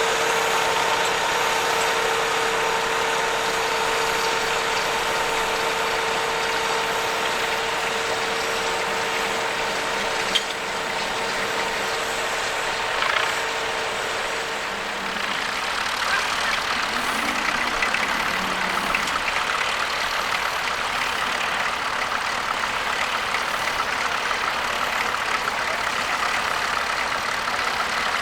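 Tractor engine running steadily, with a steady whine that fades out about halfway through and a single sharp click about ten seconds in.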